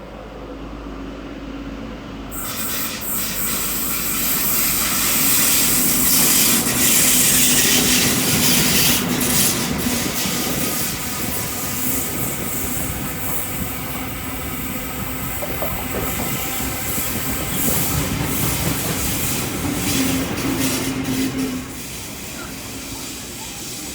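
XPT diesel train, with power cars XP2011 and XP2004, running through the platform. The sound builds over the first several seconds, stays loud, and drops away sharply near the end.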